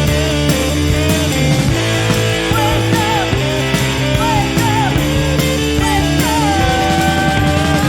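Rock band playing an instrumental passage. A lead line of bending notes comes in a few seconds in and ends on one long held note, over bass and drums.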